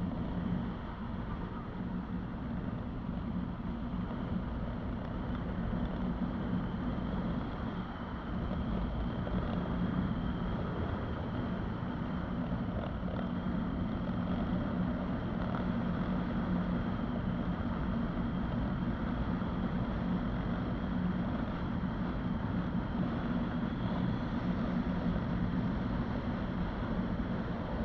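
Motorcycle engine running at a steady cruising speed, with wind buffeting the microphone.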